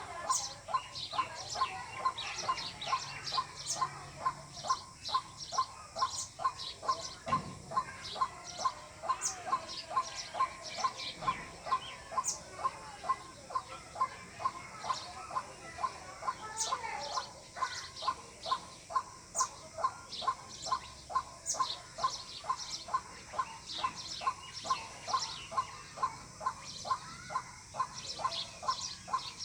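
White-breasted waterhen calling: a steady, unbroken series of short repeated notes, about two a second.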